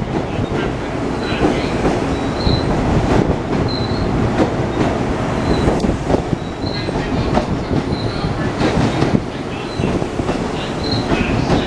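Long Island Rail Road Kawasaki M9 electric multiple-unit train rolling out of the station past the platform. Its wheels clack over rail joints and switches with a steady rumble, and short high wheel squeals come every second or so.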